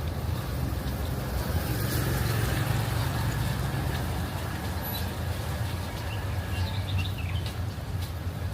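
City street ambience: a steady low rumble of traffic, with a few short bird chirps about seven seconds in.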